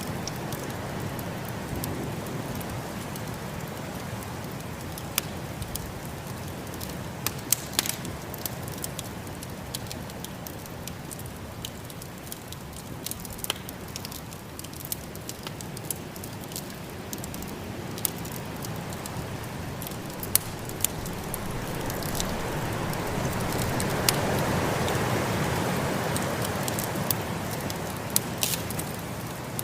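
Wood fire crackling, with scattered sharp pops, over a steady rush of snowstorm wind that swells up and then eases in the last third.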